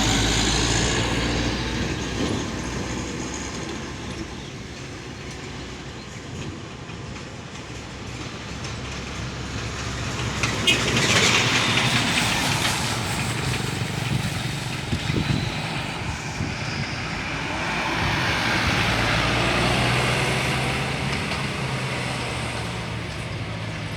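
A train and road vehicles passing, their noise swelling and fading several times, loudest about eleven seconds in with a rapid clacking of wheels.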